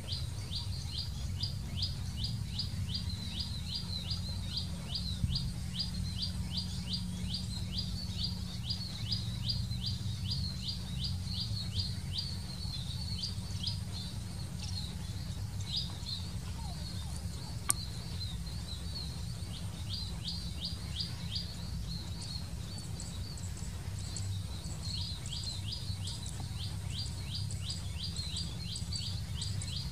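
A small bird's short, high chirps, repeating quickly at several a second in long runs with a few pauses, over a steady low rumble. A single sharp click about two-thirds of the way through.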